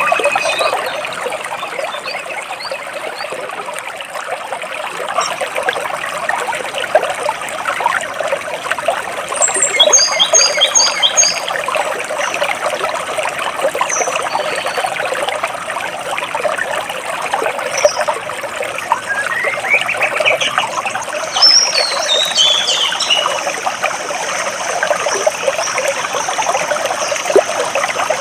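Stream water trickling and splashing steadily between large rocks, with birds chirping over it now and then: a quick run of high notes about ten seconds in, and a falling series of notes a little after twenty seconds.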